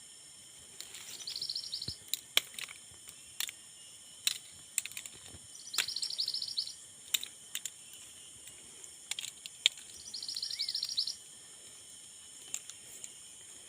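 A bird repeating a high, rapid trill about a second long, three times at intervals of four to five seconds, with sharp short chips or clicks between the trills, over a steady high-pitched hiss.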